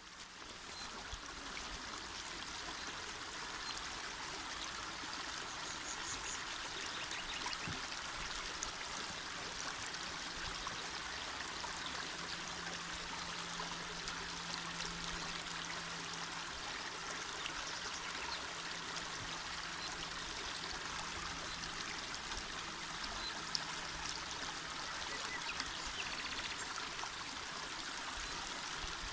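Small mountain river flowing: a steady, even rush and babble of water, fading in over the first second or so.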